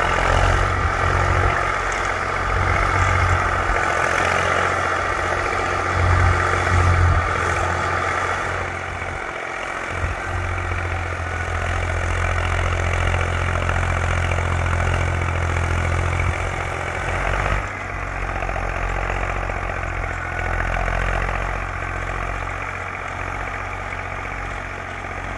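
Zetor tractor's diesel engine running steadily under working load, with a brief dip about ten seconds in.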